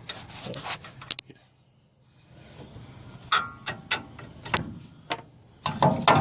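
Irregular metallic clinks and knocks, some ringing briefly, like hand tools striking steel suspension parts, with a short quiet spell about a second and a half in and quicker clattering near the end.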